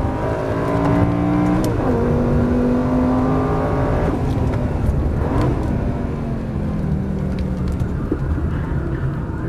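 Lamborghini Gallardo V10 heard from inside the cabin under hard acceleration. Its pitch climbs, drops with a click at an upshift about a second and a half in, and climbs again. From about four seconds in the pitch falls away and settles lower.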